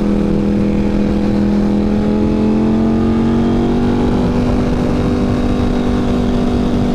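Ducati Panigale V4 engine running through a Competition Werkes GP race exhaust, holding a steady cruise with the revs creeping slightly higher from about halfway, heard on the rider's helmet headset microphone.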